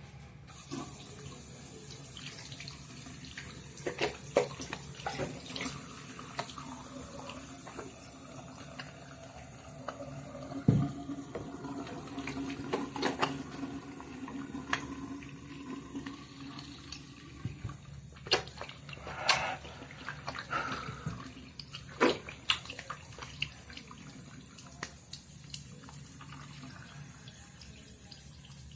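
Sink tap running steadily while a face is washed, turned on about half a second in, with scattered sharp splashes and knocks.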